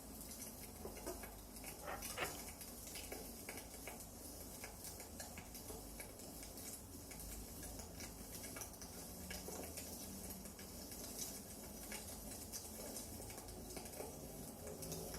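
Firewood crackling in a fireplace: irregular small snaps and pops over a low steady rumble, with a louder pop about two seconds in.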